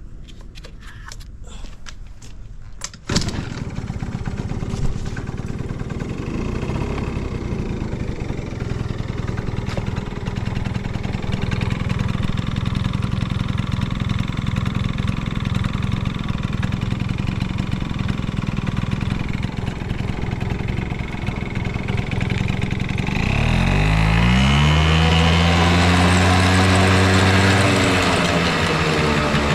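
Yamaha Champ 50 two-stroke scooter engine catching about three seconds in after a few clicks, then idling steadily. Near the end it is revved up, held high and let fall, running with no abnormal noise.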